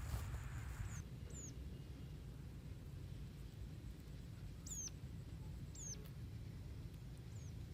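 Thin, high-pitched chirps of a small bird: four short notes, each sweeping downward, spaced a second or more apart, over a steady low rumble.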